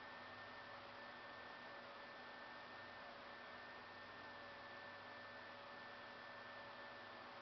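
Near silence: a steady hiss with a faint, even electrical hum.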